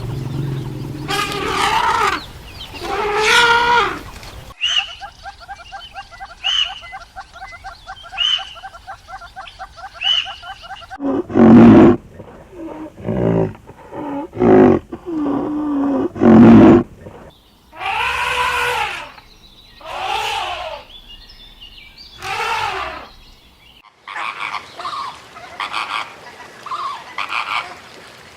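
A string of different animal calls, some pitched and drawn out, others short and pulsing, with abrupt changes between them every few seconds.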